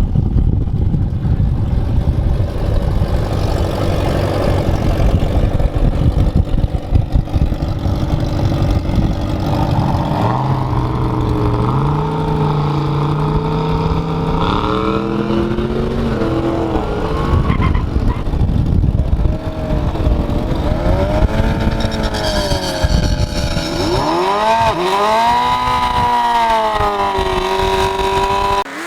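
Loud car engine at a drag strip. It rumbles at first, then climbs in pitch in a series of steps about ten seconds in, and the last several seconds carry wavering rising-and-falling wails.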